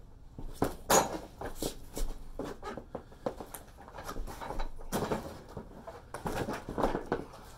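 Irregular knocks and clinking clatter, a few each second, of gear being handled and moved about; the jackhammer is not running.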